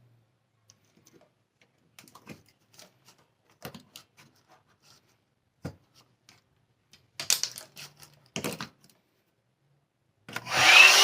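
Scattered clicks and knocks of handling. Near the end a one-step hair dryer brush switches on: its motor whines up in pitch and settles into a steady loud blowing.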